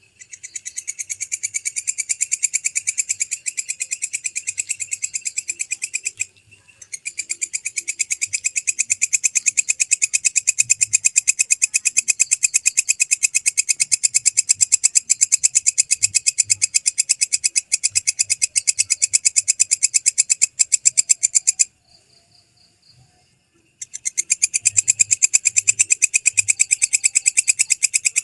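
Walang kecek (belalang kecek) katydid calling: a loud, rapid, even train of shrill clicking pulses that keeps going for long stretches, breaking off briefly about six seconds in and for about two seconds near the end.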